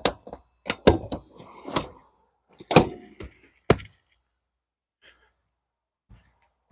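Hard plastic-and-padding thunks and knocks, four sharp ones in the first four seconds with rustling between, as the re-upholstered back seat of a Can-Am Outlander Max ATV is set onto the machine and pressed into place; after that only a couple of faint ticks.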